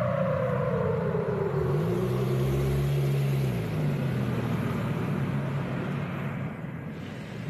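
Civil-defence rocket-alert siren winding down in one long falling tone over the first two seconds, over steady street noise. A vehicle engine rises and falls in pitch about two to three and a half seconds in.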